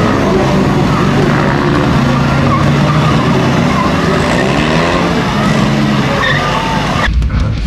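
Demolition derby car engines revving up and down, with short tire squeals over them. The sound changes abruptly about seven seconds in.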